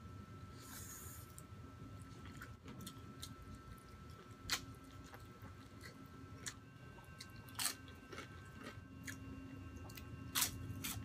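A person chewing and biting crispy fried chicken skin and roast chicken, with several sharp crunches spread a second or more apart.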